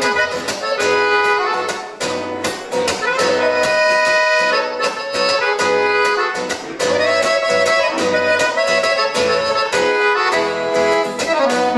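Accordion playing an instrumental solo break between sung verses, over a steady rhythmic backing.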